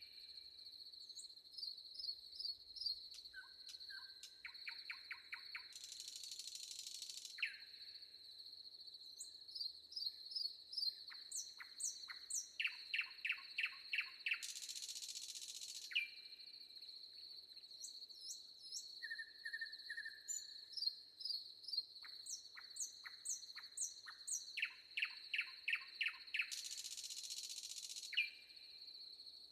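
Forest ambience: several birds calling and chirping in quick series of short notes over a steady high-pitched insect drone. A short hissing buzz rises out of it three times, each lasting a second or two.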